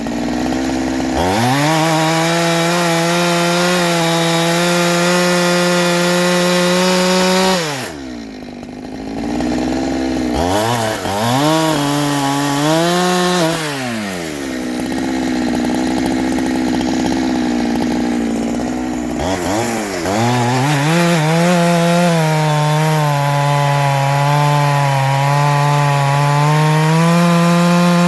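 Ported Farmertec G372XT two-stroke chainsaw cutting wood at full throttle, its engine pitch held steady under load through long cuts. It drops to idle twice between cuts, with one short rev-up in the middle.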